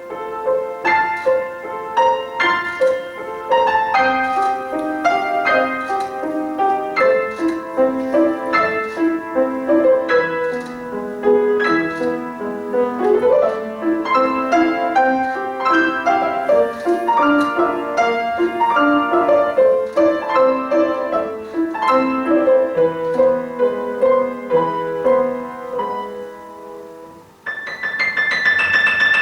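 Piano playing a flowing melody over a moving accompaniment of separate notes. Near the end the playing drops away briefly, then a brighter, denser passage begins.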